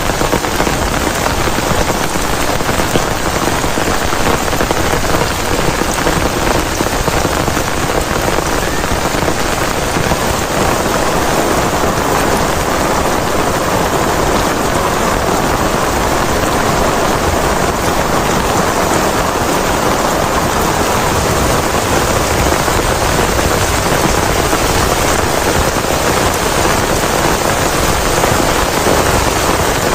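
Heavy rain falling steadily, an even, dense hiss with no break.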